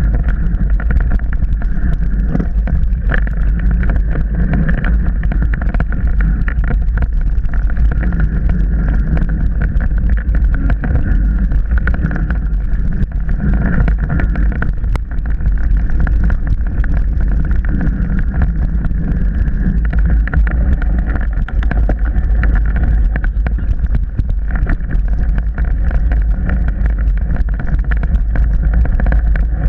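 Riding a mountain bike on a trail, heard from a camera on the bike or rider: heavy wind rumble on the microphone with continual rattling and knocking from the rough ground.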